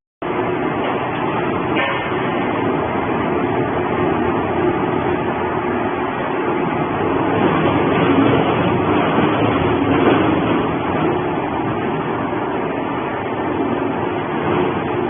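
Tractor-engine-driven pulverizer running steadily, a dense, even mechanical noise with a faint engine hum underneath.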